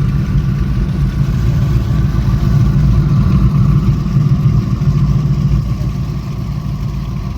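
High-performance powerboat engines idling, a steady low rumble that swells a little midway and eases slightly near the end.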